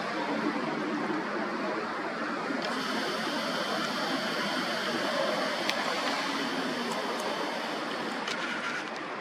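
Steady outdoor rushing noise at a moderate level. Faint, steady high tones join it from about three seconds in until near the end, along with a few light clicks.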